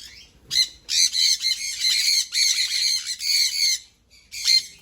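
Sun conures screeching: a rapid string of harsh, shrill squawks for about three seconds, then one more short burst near the end.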